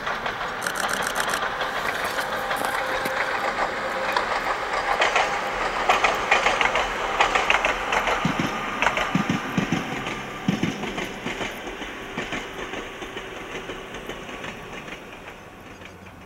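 Ohmi Railway two-car electric train running past, its wheels clicking over the rail joints. The sound builds, peaks about six seconds in, then fades away.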